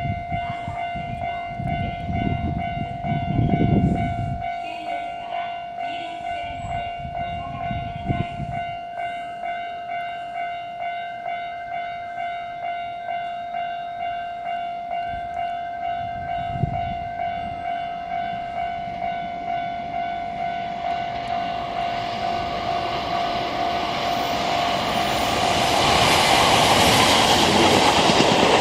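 An electronic railway warning signal rings in steady repeated pulses, a little faster than once a second. Near the end a train comes in and its rushing, rising noise covers the signal.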